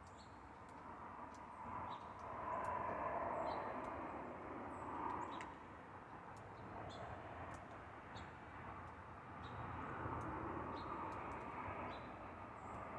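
Small birds chirping in short, scattered high notes over a steady background hum that swells and fades.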